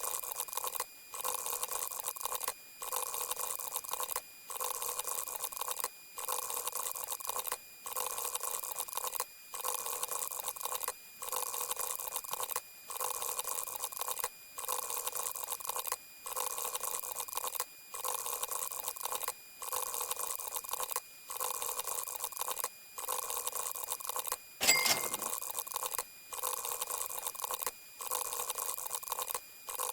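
A short hissing sound effect looped over and over, restarting about every 1.7 seconds after a brief gap. A single sharp click about 25 seconds in is the loudest moment.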